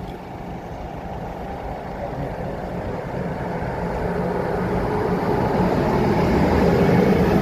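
Train approaching, its rumble growing steadily louder.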